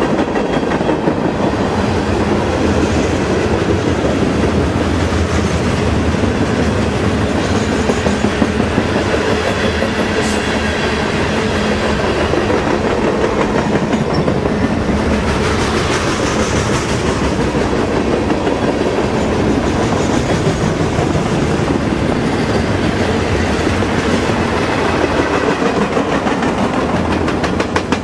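Freight train cars rolling past with a steady rumble and rattle. Wheels clack over rail joints in quick rhythmic runs about eight seconds in and again near the end.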